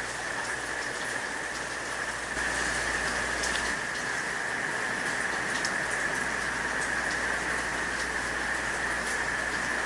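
Steady rain falling, growing a little louder about two and a half seconds in.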